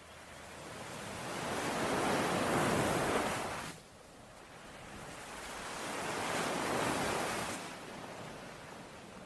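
Ocean waves washing onto a shore, two in a row: the first swells over about three seconds and stops abruptly near four seconds in, the second swells and fades away about eight seconds in.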